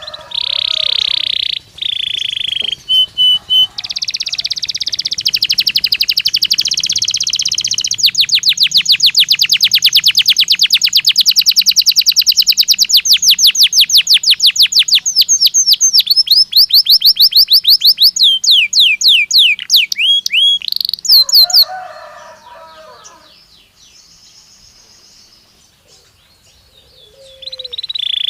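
Domestic canary (Belgian canary) singing a long song of rapid trills and rolls, high notes repeated very fast with the tempo changing from phrase to phrase. It goes quiet about 22 seconds in and starts singing again near the end.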